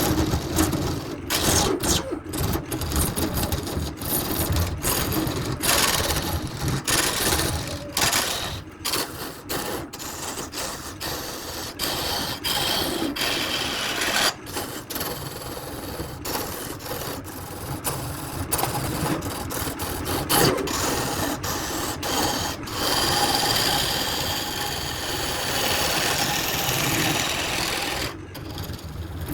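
Workshop power tools working wood: a steady, noisy machine sound, broken again and again by short, abrupt breaks.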